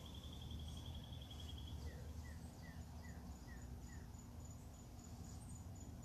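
Faint wild birdsong: a fast, high trill, then a run of six short falling notes, with a high, even ticking about four times a second joining in a few seconds in.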